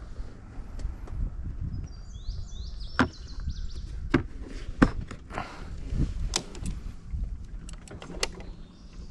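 Low rumble of an off-road machine on a trail, with scattered sharp knocks and rattles. A bird sings a short run of chirps about two to three seconds in.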